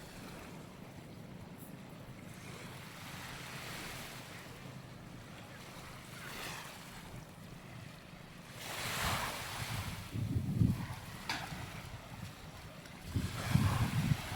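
Sea surf washing onto the beach with wind buffeting the microphone, the gusts rumbling louder in the second half.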